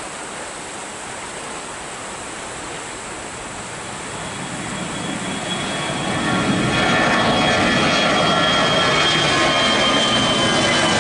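Airliner's engines growing louder as the plane comes closer, from a steady hiss to a loud, even engine noise about six seconds in. A high whine runs through it and slowly falls in pitch.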